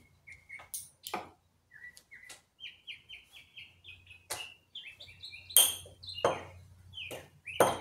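A small bird chirping over and over in short, quick notes, with sharp clicks and knocks of neodymium magnets and small metal parts handled on a wooden workbench; the loudest knock comes just past halfway.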